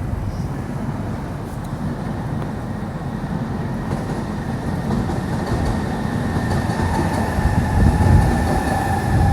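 Train running through the station: a low rail rumble that grows louder, with two steady high whining tones coming in over the second half.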